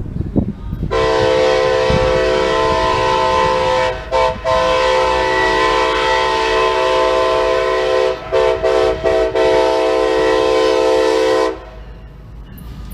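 Diesel freight locomotive's air horn sounding a long chord, broken briefly about a third of the way in and stuttered in quick short toots about two-thirds in, then held again before cutting off, with the low rumble of the train underneath.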